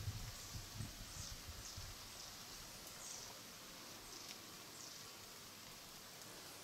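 Thin, high call notes from a small bird, each short and falling in pitch, repeated every second or so over quiet outdoor background. Low thuds are heard in the first two seconds and then stop.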